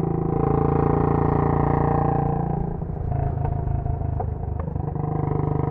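Royal Enfield Bullet 500's single-cylinder four-stroke engine running through a Punjab long bottle silencer at a steady engine speed. The level dips briefly about halfway through, then picks back up.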